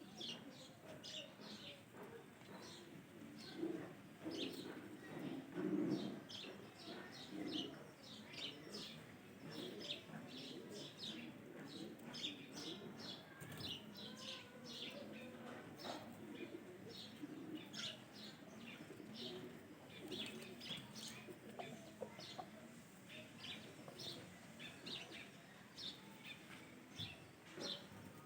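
Birds chirping: short high chirps come several times a second throughout, over a low, uneven murmur that is loudest about four to six seconds in.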